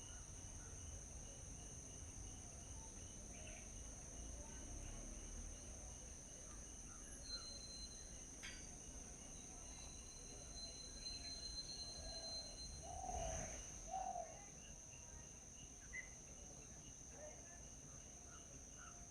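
Faint morning birdsong and insect ambience. A steady high-pitched trill of crickets or other insects runs throughout, with scattered bird chirps and thin whistles, and a couple of slightly louder short calls about two-thirds of the way through.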